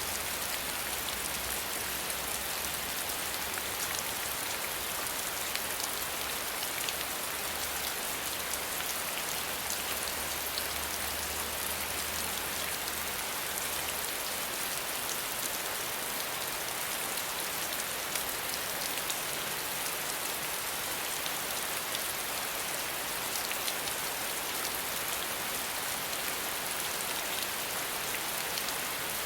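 Steady rain falling, dense patter of raindrops on a surface with many small, sharp drop ticks over an even hiss.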